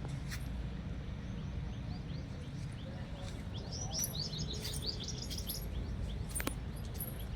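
A bird calling in a fast run of short, downward-sliding chirps through the middle, over a steady low rumble, with a few sharp clicks.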